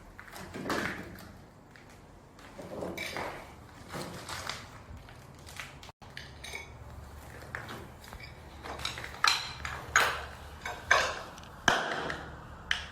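Objects being handled and pulled at: soft scraping and shuffling, then about five sharp knocks and clinks in quick succession in the last few seconds.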